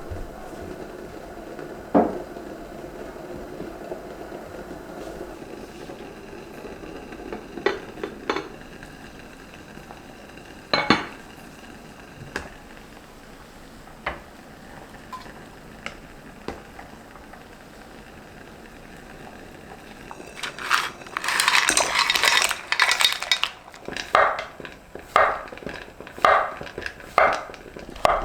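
Kitchenware clinking and knocking: dishes and utensils set down and handled, with a few scattered sharp clinks. Near the end comes a longer loud clatter, followed by sharp sounds about once a second.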